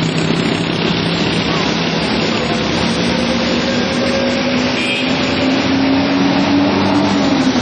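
Vehicle engine running hard under a loud noisy rush, its pitch climbing slowly and then dropping near the end.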